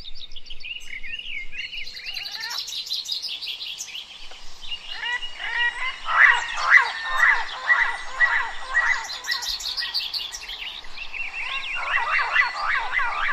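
A chorus of several songbirds chirping and singing together. In the middle, one bird sings a louder run of repeated sweeping notes, about two a second, over the others.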